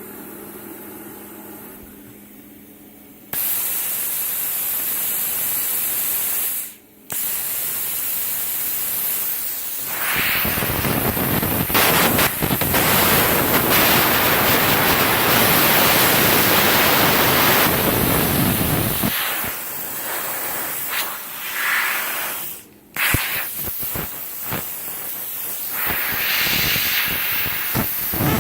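CUT50 plasma cutter torch: a steady high hiss of air starts about three seconds in and breaks off briefly twice. From about ten to nineteen seconds a louder crackling arc joins it. The unit arcs and melts the metal rather than cutting cleanly, and the uploader treats it as faulty.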